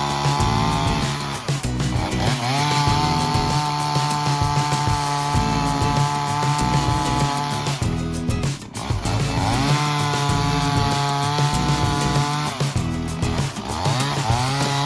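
Gas chainsaw running at high revs through cuts, dropping back briefly three times and revving up again, over background music.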